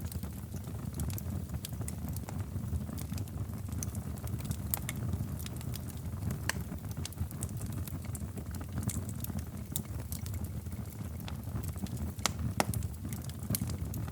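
Wood fire crackling in a fireplace: a steady low rumble of flames with irregular sharp pops and snaps, one louder pop near the end.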